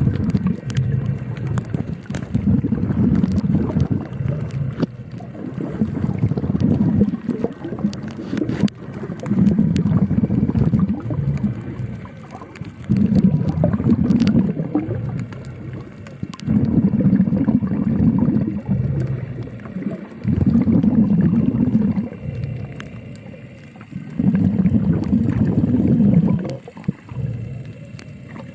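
Underwater recording of a swimmer's slow breathing, swelling and fading about every three to four seconds, with scattered faint clicks.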